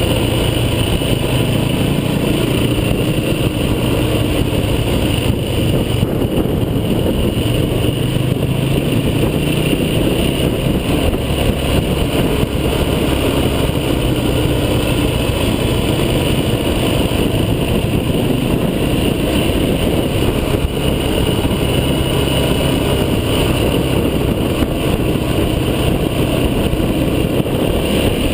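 Off-road vehicle driving, its engine running steadily under a continuous rough rumble.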